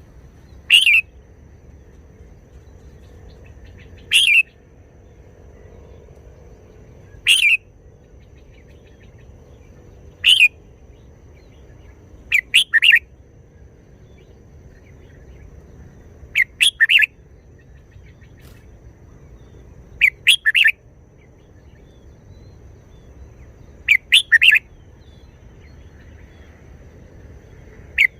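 Red-whiskered bulbul singing short, loud song phrases, one every three to four seconds, about eight in all; the later phrases break into two or three quick notes.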